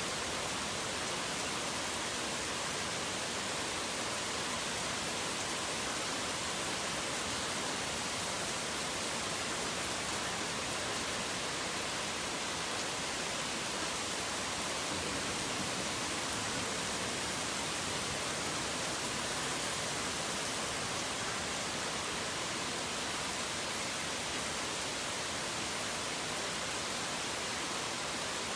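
Steady heavy rain, a dense even hiss with no single drops, thunder or birds standing out.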